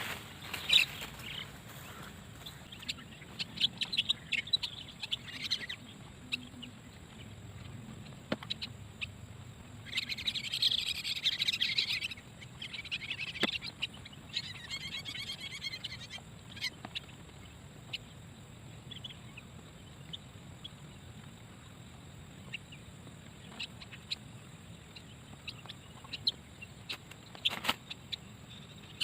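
Starling (jalak) calls: scattered short chirps, with a dense burst of chattering about ten seconds in and another a few seconds later.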